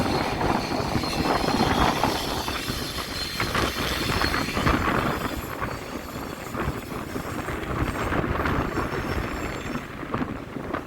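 Sea surf washing in, with wind on the microphone: a steady rush that swells and eases every few seconds.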